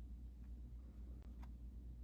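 A few faint, light ticks, typical of a needle and yarn being worked through plastic craft mesh, three times over a steady low hum.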